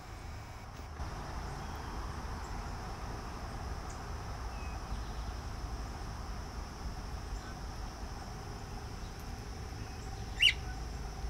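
Outdoor background with a steady low rumble, and one short, sharp, high-pitched bird chirp close by about ten seconds in.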